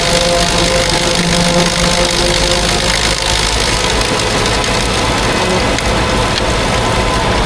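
Heavy farm machinery engine running steadily under load during corn silage chopping, a constant loud mechanical drone.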